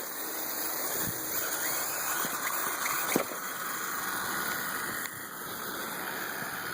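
Parrot AR Drone 2.0's four electric rotor motors idling on the ground after landing, a steady whirring hiss. There is one sharp click about three seconds in, and the sound drops a little about five seconds in.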